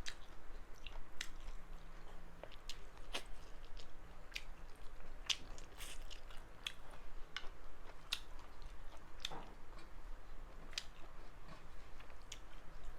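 Close-up eating sounds: a person chewing and biting mutton curry with rice, with irregular wet mouth clicks and smacks a few times a second.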